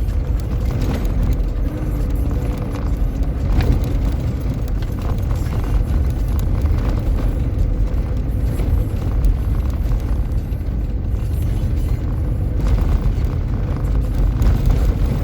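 A vehicle driving: a steady low rumble of engine and road noise with a faint engine tone, and scattered knocks and rattles.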